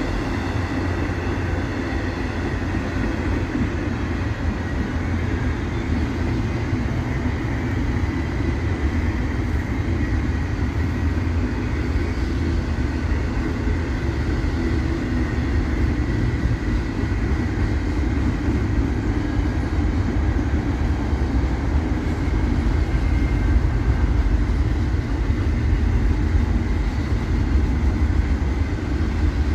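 Freight train rolling past: a steady low rumble of the cars on the rails, with a faint thin high tone above it.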